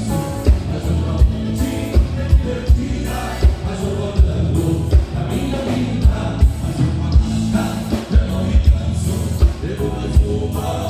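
A gaúcho regional band playing live, with singing over a steady bass-drum beat.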